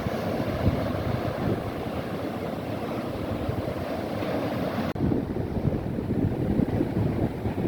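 Wind buffeting the microphone over the wash of sea waves, a steady rough rumble; the noise changes abruptly about five seconds in at a cut.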